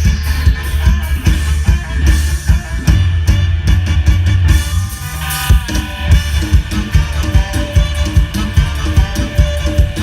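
Loud live music from a Thai Isan show band: heavy bass and drum kit with guitar over a steady dance beat.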